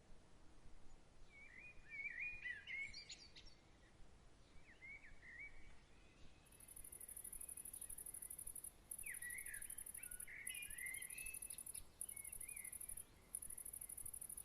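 Songbirds singing short warbling phrases, and a cricket's very high, rapidly pulsing trill that starts about six seconds in and breaks off briefly a few times.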